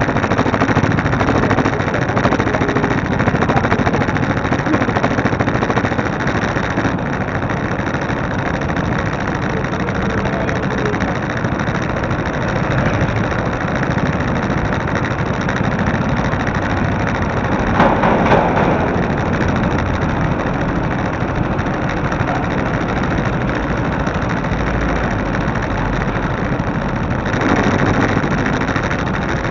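Motorcycle engine running steadily, heard from a camera mounted on the bike, with a brief louder burst about eighteen seconds in.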